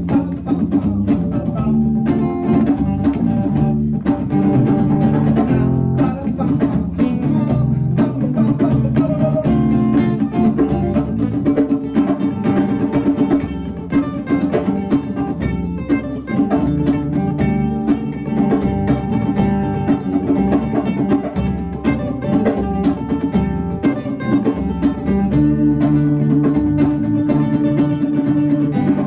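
Live band music: guitar playing over a drum kit, a steady full sound with no pause.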